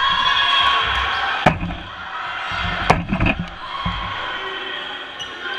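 Dodgeballs smacking hard during play, two sharp hits about a second and a half apart with a few lighter knocks after the second, over players' shouting.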